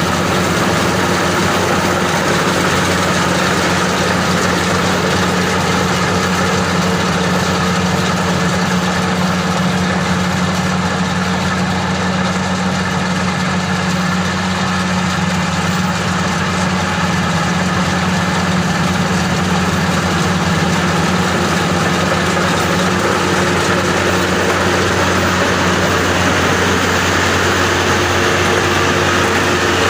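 Maxxi Bimo 102 SS rice combine harvester running steadily under load, its engine hum mixed with the rushing noise of the threshing machinery.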